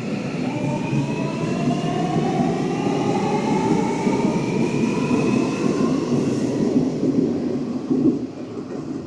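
A Hanshin Railway electric train moving along the platform: the traction motors whine in several tones that rise in pitch as it picks up speed, over a steady rumble of wheels on rail. The rumble eases about eight seconds in.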